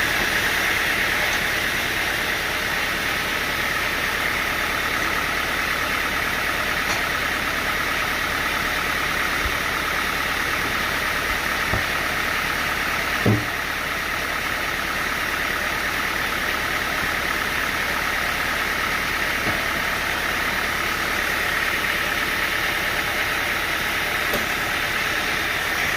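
Sawmill machinery running steadily with an even mechanical hum, and one short knock about halfway through.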